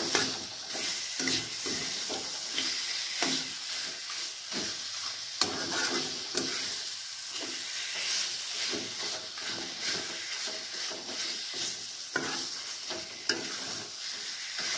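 Fried chicken pieces sizzling in hot masala in a metal kadhai as they are stirred and tossed. A flat metal spatula scrapes and knocks against the pan at irregular intervals over a steady frying hiss.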